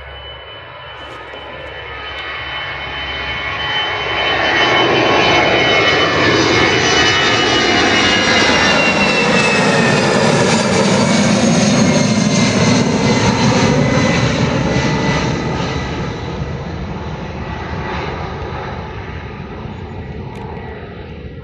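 Airbus A319-111 jet airliner taking off past, its twin CFM56 turbofan engines at takeoff power. The noise swells over about four seconds, stays loud for about ten with a whine that falls in pitch as it goes by, then fades slowly.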